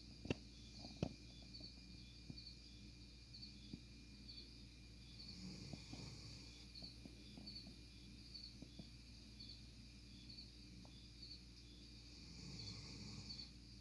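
A German Shepherd dog snoring softly, two slow breaths several seconds apart, about midway and near the end, over steady, regular cricket chirping.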